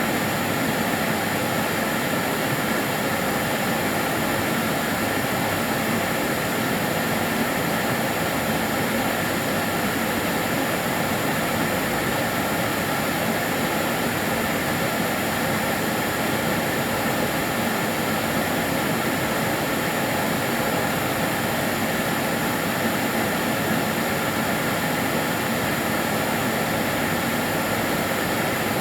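Karcher DS 6 Premium water-filter vacuum cleaner running steadily, a constant rushing noise with a faint high whine from the motor.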